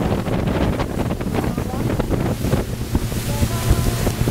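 Wind buffeting the microphone over the steady low drone of a Carver 3207 motor yacht's engines running underway, with the rush of water past the hull.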